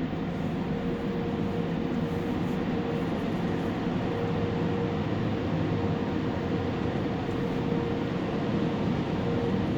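Steady mechanical drone with a faint steady whine that fades in and out, running evenly throughout.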